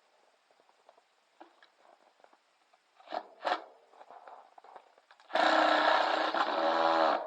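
Cordless drill running in one burst of about two seconds near the end, its motor pitch wavering slightly, after a couple of short knocks.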